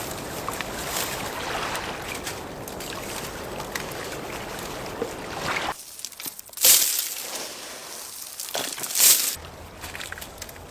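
Water sloshing and trickling, with two louder hissing swishes, one about seven seconds in and one about nine seconds in.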